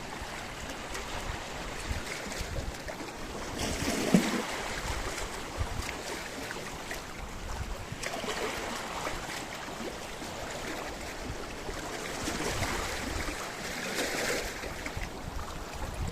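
Sea waves washing against a rocky shore. The surf swells three times, and the first swell, about four seconds in, carries a sharp splash.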